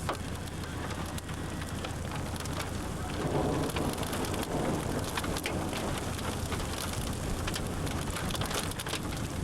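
Rain with light hail falling: a steady hiss dotted with many scattered sharp ticks of stones and drops striking.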